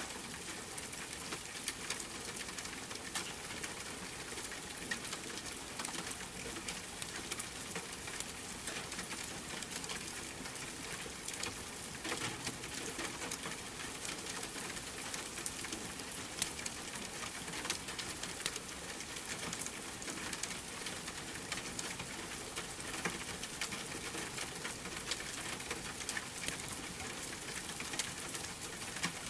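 Steady rain with a crackling fireplace: an even hiss of rainfall with frequent sharp pops and crackles scattered through it.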